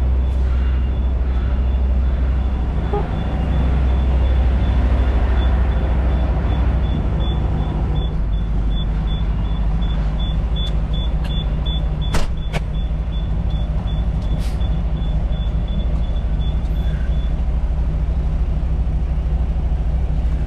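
A heavy vehicle's engine running with a steady low rumble, with a rapid high-pitched beeping, about three beeps a second, that stops near the end. Two sharp clicks come in the middle.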